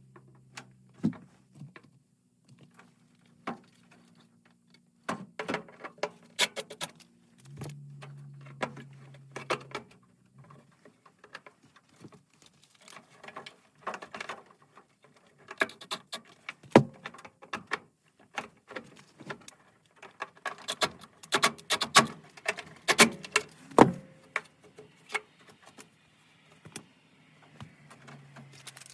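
Irregular clicks, taps and metallic rattles of tools and metal parts being handled, over a low steady hum that comes and goes.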